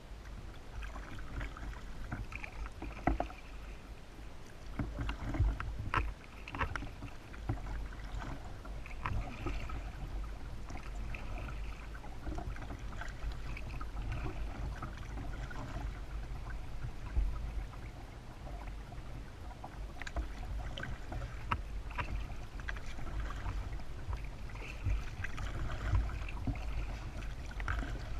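Kayak paddling: paddle blades dipping and splashing in the water in irregular bursts, with a few sharp knocks, over a steady low rumble.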